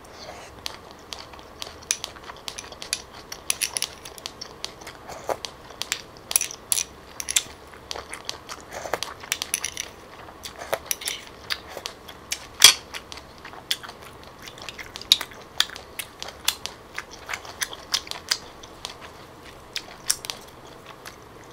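Close-miked chewing and crunching of grilled cockle meat, with a stream of sharp clicks as a metal spoon scrapes and taps the cockle shells. The loudest click comes about halfway through.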